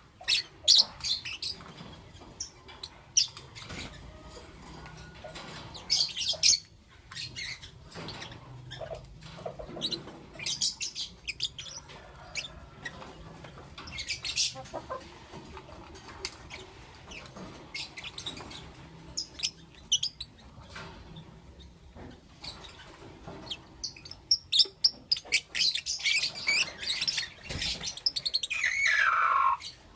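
Pet lovebirds chirping and calling in short, high, scattered notes. The calls crowd into a busy flurry about 25 seconds in, and one call slides down in pitch near the end.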